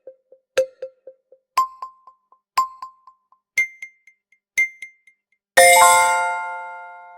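Quiz countdown timer sound effect: a pitched tick once a second, each with short fading echoes, stepping up in pitch twice. About five and a half seconds in, a loud bright chime rings out and fades slowly, marking the answer time running out.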